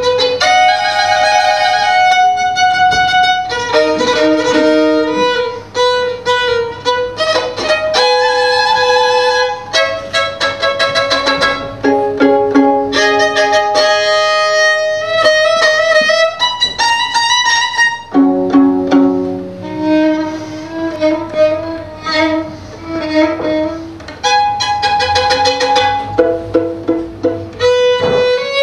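Solo violin playing a free, unaccompanied line of separate notes, short ones mixed with held ones, some held notes wavering with vibrato.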